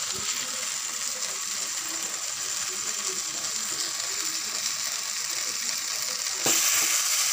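Okra, capsicum and tomato frying in mustard oil in a kadai: a steady fine crackling sizzle that gets louder about six and a half seconds in, as the vegetables are stirred.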